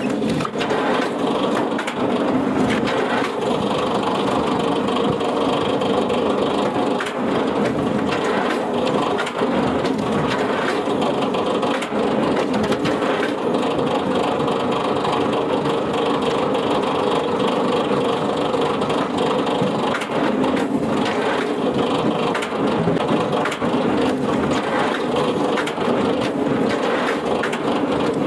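A wood-processing machine crushing and splintering wood: a steady grinding din with frequent sharp cracks.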